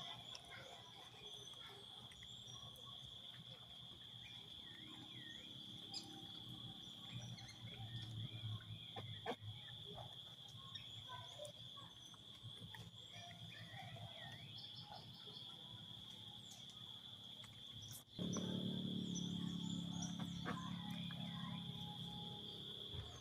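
Steady high insect drone, like crickets, with scattered faint chirps. A low rumble starts abruptly about three-quarters of the way in and is the loudest part.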